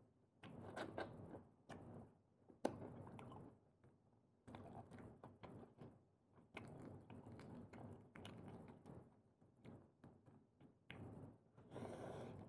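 Faint, irregular chewing and mouth sounds of a person eating prawns, with a few sharp clicks, the loudest about two and a half seconds in.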